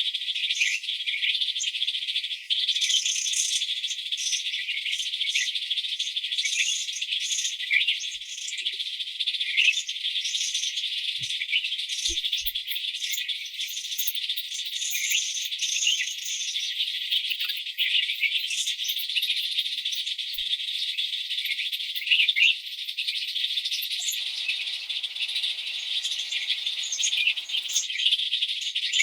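Dense, steady high-pitched insect chorus with fast flickering pulses.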